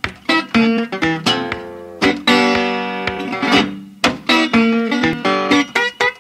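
Acoustic guitar played in separate strummed chords, each ringing out and fading, with one long ringing chord from about two seconds in.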